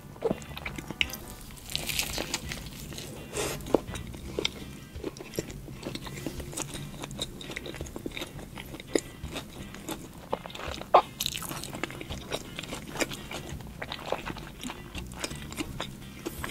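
Close-up biting and chewing of a crispy burger: repeated crunches and wet mouth clicks, with one loud crunch about eleven seconds in.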